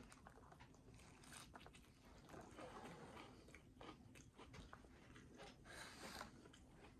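Faint sounds of a person biting into and chewing a fish taco, with small scattered crunches and clicks.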